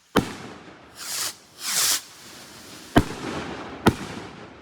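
Fireworks going off: a sharp bang, two short hissing bursts, then two more sharp bangs about a second apart, each trailing off in echo.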